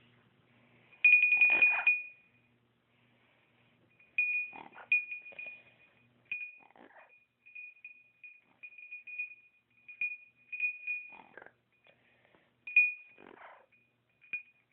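Small bell jingling in repeated short bursts, each ring a single high tone, loudest about a second in. Brief rattling knocks are mixed in among the rings.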